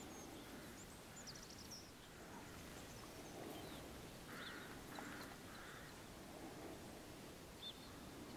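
Quiet outdoor ambience with faint, scattered bird chirps, and about halfway through three short bird calls in quick succession.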